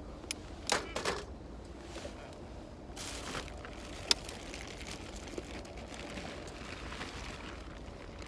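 A few sharp clicks and knocks, the loudest about four seconds in, with a brief rustle around three seconds.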